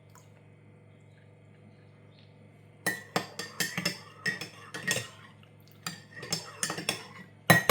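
A spoon stirring hot chocolate in a cup, clinking repeatedly against its sides, starting about three seconds in, with the loudest clinks near the end.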